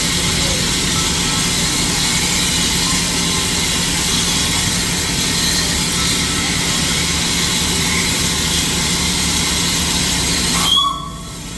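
Steam locomotive venting steam: a loud, steady hiss that cuts off abruptly near the end.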